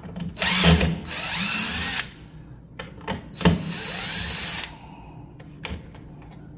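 Cordless power driver running in two bursts of about a second and a half each, its motor speed rising and falling, backing out the chewed screws of a deadbolt. A few small clicks follow.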